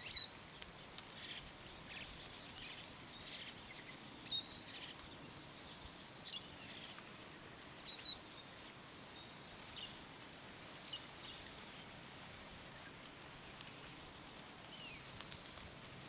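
Scattered short, high bird chirps every few seconds, some sliding down in pitch, the clearest three about four seconds apart, over a faint steady outdoor hiss.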